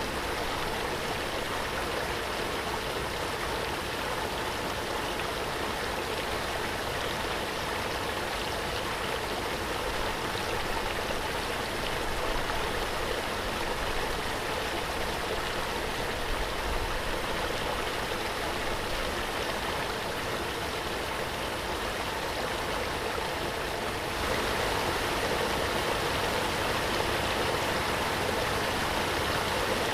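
Waterfall: a steady rush of falling water, a little louder and brighter for the last few seconds.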